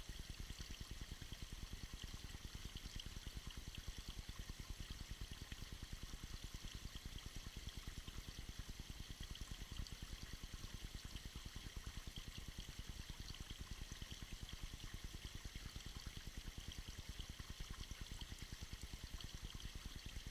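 Tiny icy waterfall splashing and pouring steadily, a continuous faint water sound.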